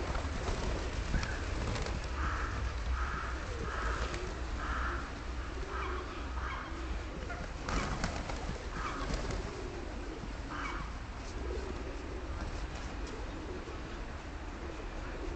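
Pigeons cooing, low and repeated, among short higher-pitched bird calls, over a steady low rumble.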